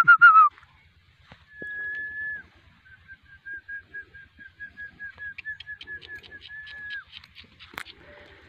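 A bird calling: one held high whistled note, then a long run of short, even notes at the same pitch, about four a second, ending on a brief falling note. A single sharp click comes near the end.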